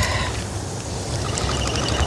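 Water spray hissing steadily from a garden sprinkler.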